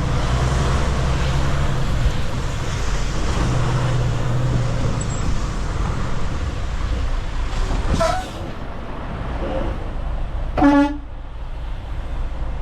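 Truck engine idling with a steady low hum; about ten seconds in, a vehicle horn gives one short, loud toot, a honk to get a driver's attention.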